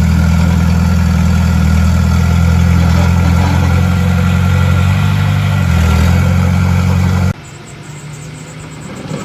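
Heavy construction-machine diesel engine running steadily at constant speed; the sound cuts off suddenly about seven seconds in, leaving a much quieter background.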